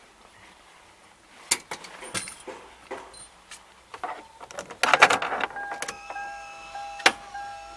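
Keys jangling and sharp clicks in a car, with a short louder burst about five seconds in, after which a steady high whine of several pitches sets in and carries on, briefly breaking now and then.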